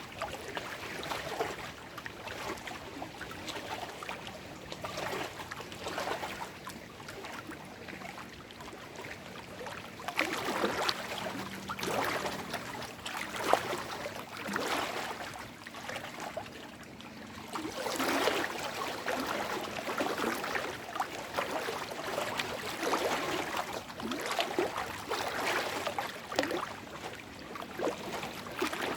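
Small lake waves washing and lapping over shoreline rocks and stones, an uneven run of little splashes and gurgles that come in louder clusters now and then.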